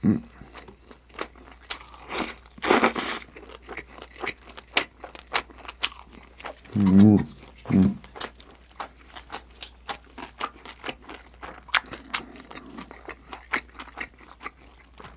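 Close-miked chewing and crunching of food in the mouth, with many sharp crackles and wet mouth clicks. Two short voiced murmurs come about seven seconds in.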